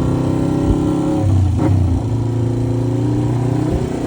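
A motor vehicle engine running, its pitch shifting down and up as its speed changes.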